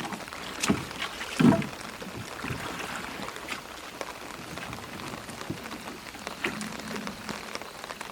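Light rain pattering with scattered small ticks, and a few dull knocks in the first two seconds, the loudest about a second and a half in.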